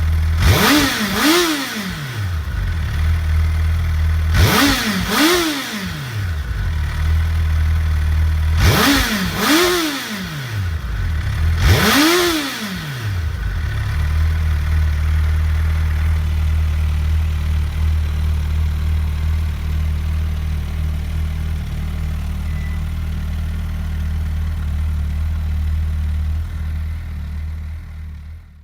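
2022 Suzuki Hayabusa's inline-four engine idling, with four quick throttle blips in the first half, the first three each a double blip and the last a single larger one. It then idles steadily until the sound drops away right at the end.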